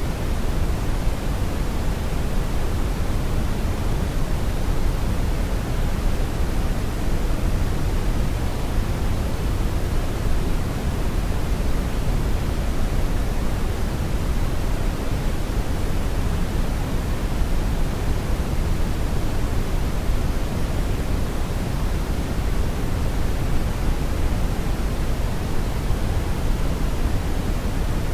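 Steady brown noise: an even, unchanging rumbling hiss, heaviest in the low end and fading toward the highs.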